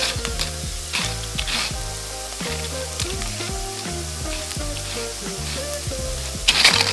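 Tortilla strips frying in hot oil, a steady sizzle with a brief louder swell near the end. Background music with a steady beat plays along.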